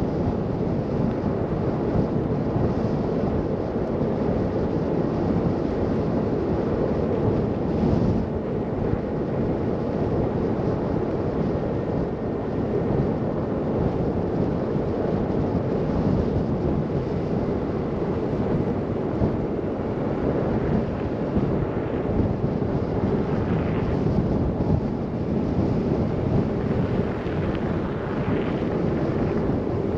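Steady rumble of a car driving through a snow blizzard: wind noise mixed with road and tyre rumble, low and even, with no breaks.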